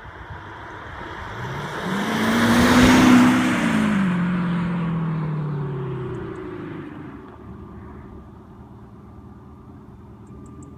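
Mercedes SLK 250 CDI four-cylinder diesel driving past, its engine note boosted by a Maxhaust active sound speaker mounted in the spare-wheel well. The note rises and then falls in pitch, loudest about three seconds in, then fades away.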